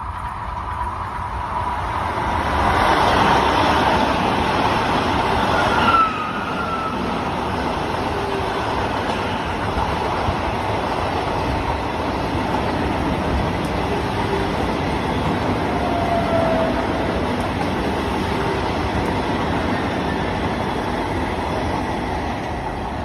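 Vande Bharat Express electric multiple-unit train running past: a steady rush of wheels on rail, loudest in the first six seconds and dropping suddenly about six seconds in, with a few brief squeals.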